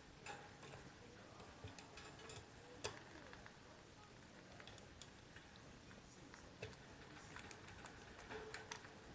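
Near silence broken by faint, irregular small taps and clicks, a few seconds apart.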